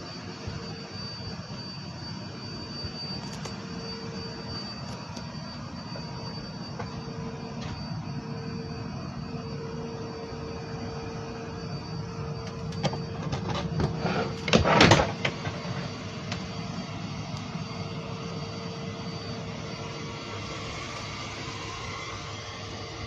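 Steady aircraft engine noise with a faint constant hum. About fourteen to fifteen seconds in there is a short clatter of knocks.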